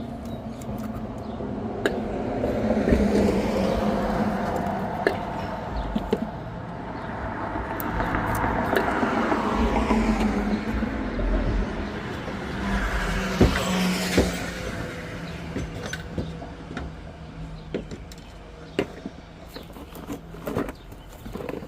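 Motor vehicles passing by, three swells that each build and fade, over a low steady hum, with scattered sharp clicks and taps.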